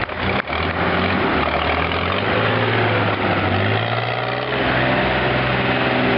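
Car engine running under load, its note starting about half a second in and climbing slowly for a few seconds before levelling off.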